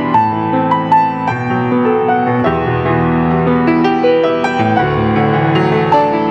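Piano playing a slow instrumental piece, with single notes and chords struck in a steady flow.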